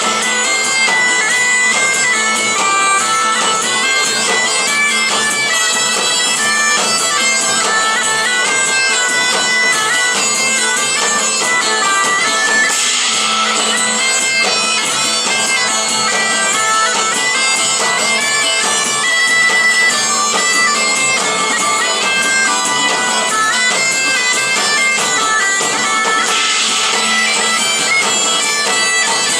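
Live medieval folk band playing an instrumental passage led by bagpipes: a stepping melody over a steady drone, with some drumming.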